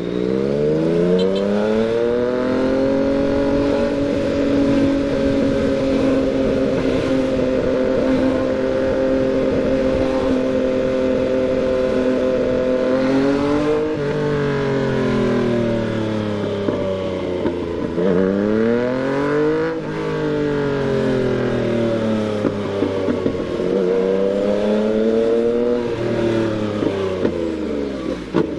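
Yamaha MT-09's three-cylinder engine pulling up through the revs, then holding a steady note for about ten seconds. Its revs then drop and climb again three or four times, and the note falls away near the end.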